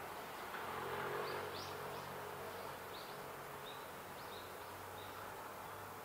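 A small songbird giving a series of short, high chirps, some sweeping quickly upward, spaced irregularly over a few seconds, above a steady faint hiss and low hum.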